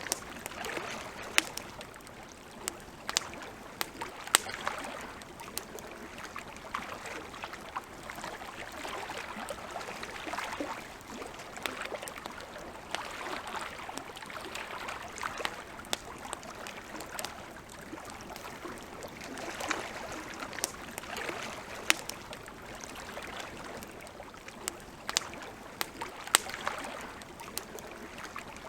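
Wood campfire crackling, with irregular sharp pops and snaps, a few of them loud, over gentle lake water lapping in soft, repeated washes.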